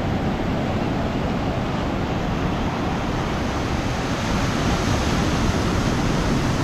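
Ocean surf breaking and washing up a beach: a steady rushing noise, with wind buffeting the microphone.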